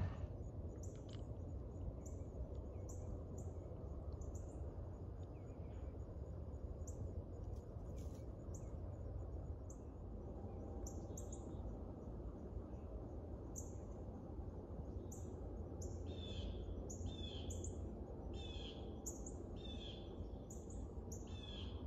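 Wild birds calling in open woodland and meadow: thin high chirps repeated throughout, joined about three-quarters of the way in by a run of louder, lower calls about once a second, over a low steady rumble.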